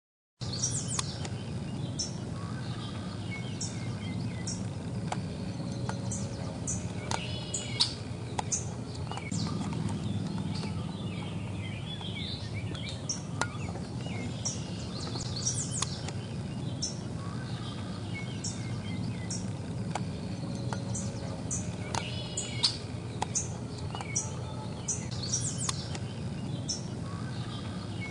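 Birds calling, with many short high chirps and trilled calls coming every second or two over a steady low hum.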